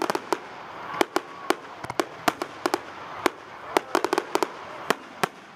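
Fireworks going off: an irregular run of sharp bangs and cracks, some coming in quick clusters of several.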